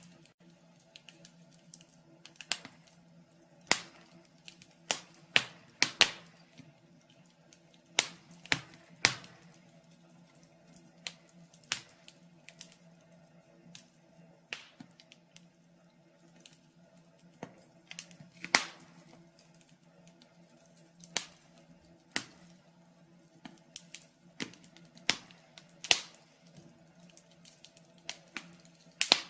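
Wood fire in a fireplace crackling, with irregular sharp pops and snaps over a faint steady low hum.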